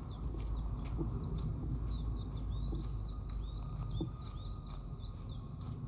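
Small birds chirping: many short, high notes that each fall in pitch, several a second and overlapping, over a steady low background rumble.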